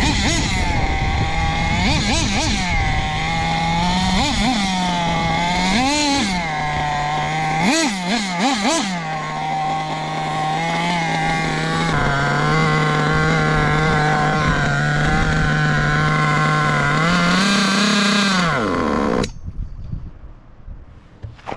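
Kyosho KE21SP .21 nitro engine in an HPI Bullet RC car, blipped up in several short revs over the first nine seconds, then settling to a steady idle. Near the end its pitch sags and the engine stops abruptly.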